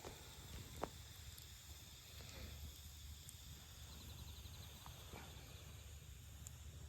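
Faint campfire crackling: a few scattered sharp pops from the burning wood, the loudest just under a second in, over a low steady rumble.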